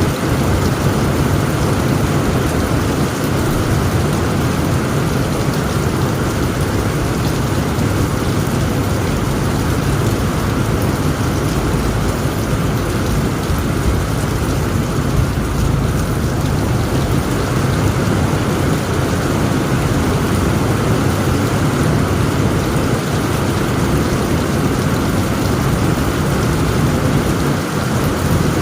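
Heavy rainstorm: steady, dense rain on a tent roof, with a low continuous rumble of thunder underneath.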